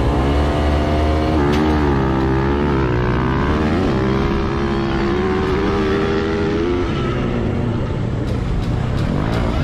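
Motorcycle engine revving, its pitch climbing and dropping again and again for about seven seconds, then running rougher and less clearly pitched near the end.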